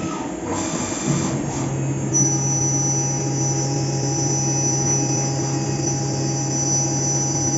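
Fagima Jazz M five-axis CNC milling machine running through a cut. Uneven machining noise settles about two seconds in into a steady low hum with a thin high whine from the spindle.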